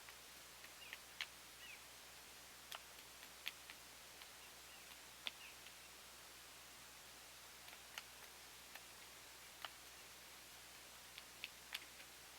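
Near silence, with faint sharp clicks and ticks at irregular intervals.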